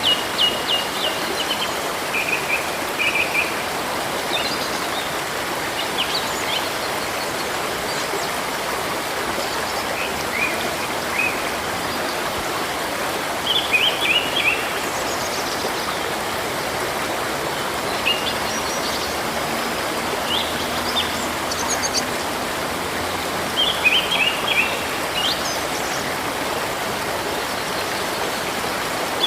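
Steady rush of flowing river water, with small birds calling over it in short bursts of quick, high chirping notes every several seconds and scattered single chirps between.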